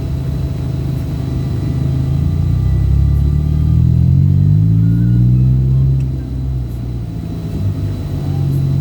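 Vehicle engine running on the road, accelerating with a rising pitch a few seconds in, then dropping back about six seconds in.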